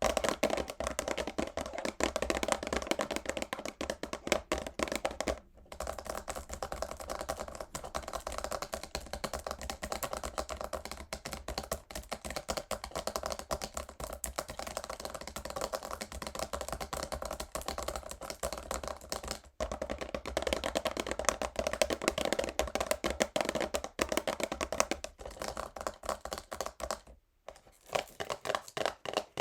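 Fingernails tapping fast on a cardboard perfume box, a dense stream of quick clicks that breaks off briefly three times.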